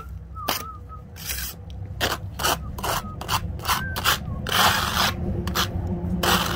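Trowel scraping and spreading an acrylic cement skim coat over concrete in repeated short, uneven strokes, about one or two a second.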